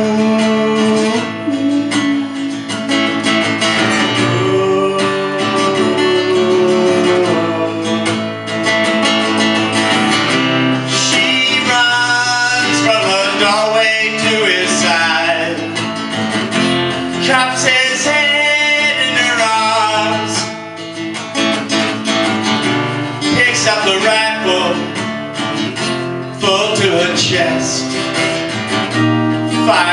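Acoustic guitar played live, strummed and picked, with a melody line that bends up and down in pitch over it.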